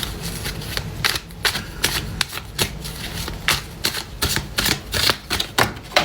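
Tarot cards being shuffled and handled: a quick, irregular run of sharp card snaps and flicks.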